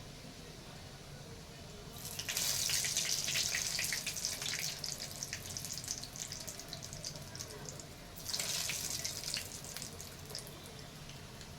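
Water running from a kitchen tap into a sink: a first run of about four seconds starting about two seconds in, then a shorter run of about two seconds near the end.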